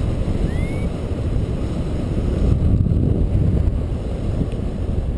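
Steady rushing wind buffeting the microphone of a paraglider in flight in strong wind.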